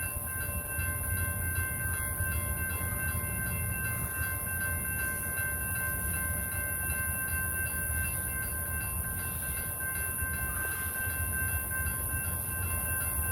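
BNSF freight train's diesel locomotives running with a steady low rumble as the train creeps slowly, with faint steady high-pitched tones above.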